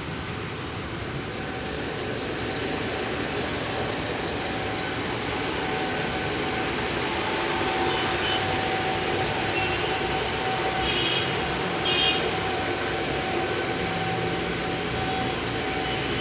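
Maruti SX4 engine idling steadily during a carbon-clean (decarbonizing) service, with a steady hum over it. A few short high-pitched tones sound in the second half.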